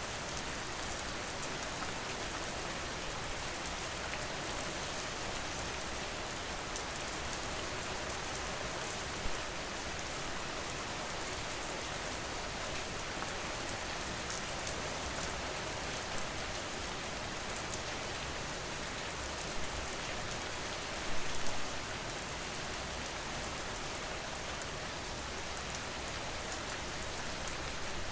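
Steady rain falling on a surface, a dense even patter with a few slightly louder drops or splashes, the loudest a little past two-thirds of the way through.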